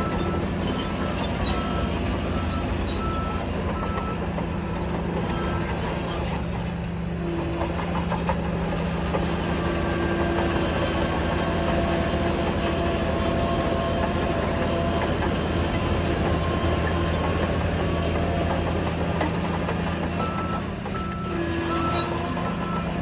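Diesel engine of a Shantui DH17C3 crawler bulldozer running steadily under load, with a reversing alarm beeping repeatedly for the first few seconds and again near the end.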